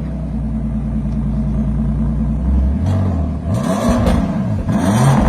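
Car engine idling with a steady hum, then revved twice in quick succession about three seconds in; each rev rises and falls in pitch with a rush of exhaust noise.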